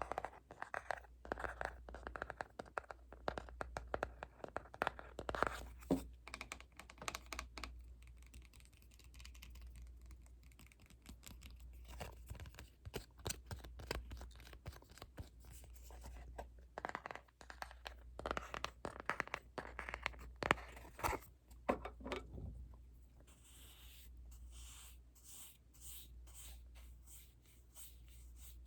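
Close-miked ASMR trigger sounds: quick irregular scratching and tapping, then, near the end, soft regular swishing strokes.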